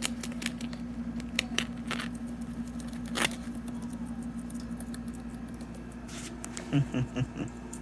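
Guinea pigs chewing and tearing at a large fresh banana leaf: scattered crisp crunches and leaf rustles, one longer rip about three seconds in. A steady low hum runs underneath, and a quick run of four short low-pitched sounds comes near the end.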